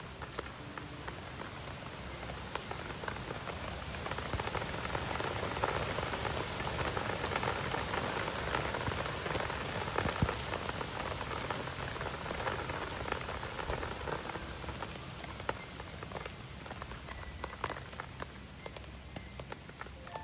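Steady rain falling on a surface, with many small sharp drop ticks through it. It swells in the middle and eases off toward the end.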